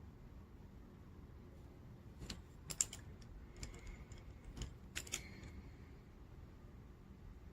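Gel pens clicking and clattering as they are handled: a handful of sharp plastic clicks, the loudest a little under three seconds in and another cluster about five seconds in.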